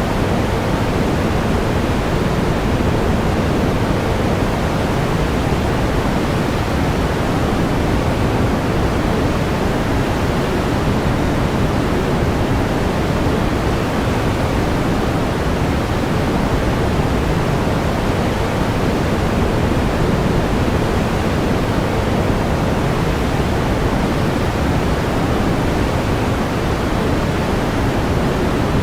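Steady pink noise: an even, unchanging hiss with more weight in the low end than the high.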